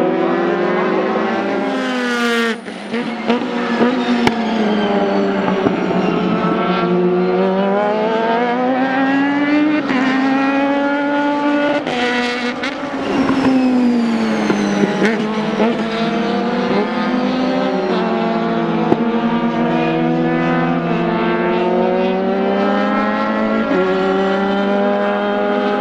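Several race car engines running hard and overlapping, their pitch repeatedly climbing under acceleration and dropping on gear shifts and braking.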